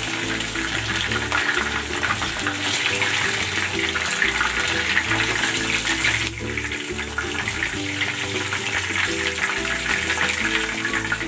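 Hot oil sizzling steadily in a frying pan around pieces of fried chicken as they are lifted out with a spatula, easing a little about six seconds in. Background music plays underneath.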